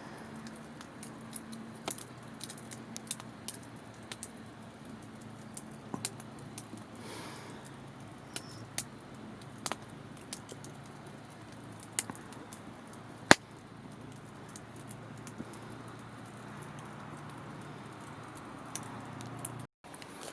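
Wood campfire crackling, with irregular sharp pops and snaps over a low steady hiss; one pop about two-thirds of the way through is much louder than the rest.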